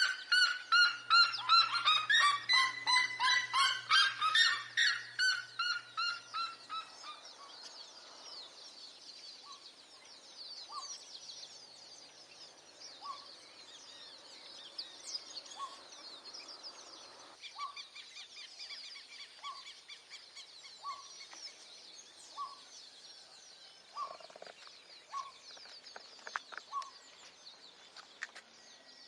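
Red-legged seriemas calling: a loud, rapid series of yelping calls, two birds overlapping, that dies away after about six seconds. Faint short calls then repeat every second or so over a bed of high chirping.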